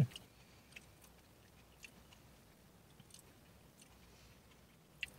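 Faint chewing of a fruit-filled candy, heard as a handful of small, scattered mouth clicks and smacks over quiet room tone.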